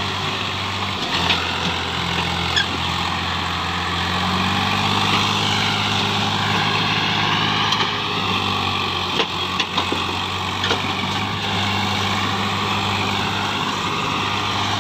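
Swaraj 735 FE tractor's diesel engine running at a steady speed, with a few short clicks over it.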